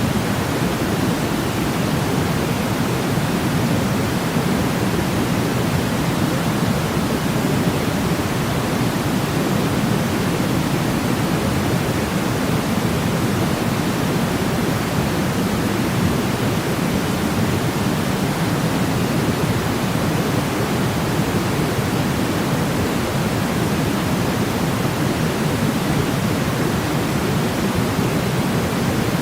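Steady sleep white noise: an even, unbroken rushing hiss, heaviest and deepest in the low register, without any change.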